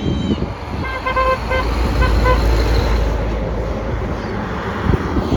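Garbage truck engine running with a low rumble, while a horn gives four short toots about one to two and a half seconds in.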